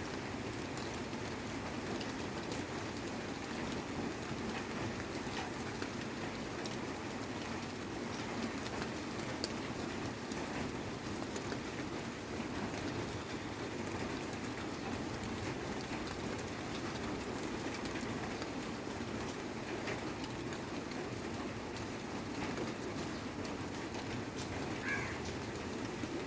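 Steady rain-like background noise, with a few faint, short bird calls, one of them near the end.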